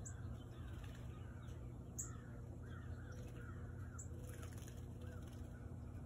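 Birds calling faintly: a run of short arching calls that fades out about five seconds in, with a short high tick about every two seconds and a steady low hum underneath.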